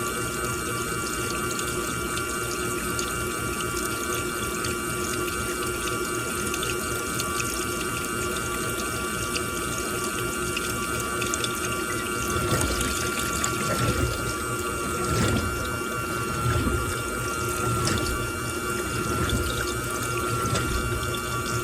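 Washing machine running with water pouring and sloshing inside, over a steady machine whine. From about twelve seconds in, heavier uneven low sloshing surges come and go.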